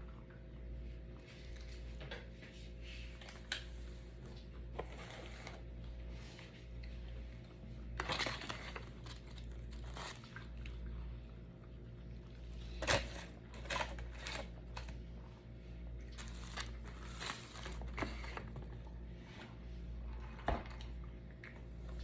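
Mukbang eating sounds: wet chewing and the crinkling and tearing of fast-food wrappers, in scattered short bursts over a steady low hum.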